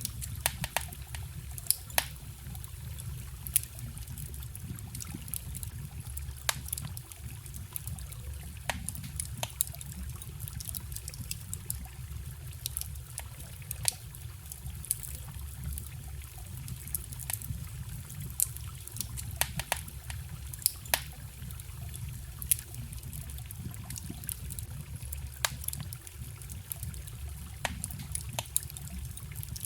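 Wood campfire crackling, with irregular sharp pops and snaps, over the steady trickle of a forest stream.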